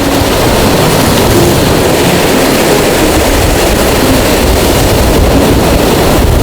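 Train passing close by: a loud, steady rumbling rush that builds just before and starts to ease near the end.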